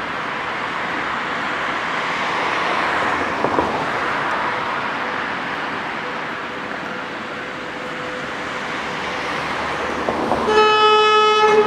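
Steady rolling noise of passing traffic, then about ten seconds in a train horn sounds one steady, high-pitched blast lasting just over a second.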